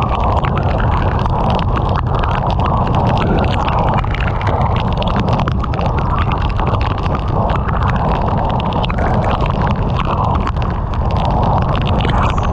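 Heavy rain pelting a moving car, with countless sharp drop-ticks over a loud, steady rumble of road and wind noise.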